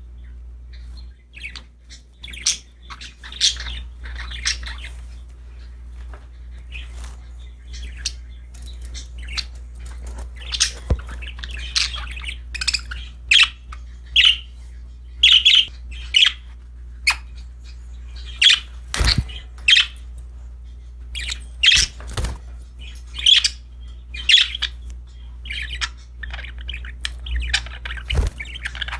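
Pet budgerigars chirping and squawking in quick, short calls that grow busier partway through, with a few sharp knocks among them, over a steady low hum.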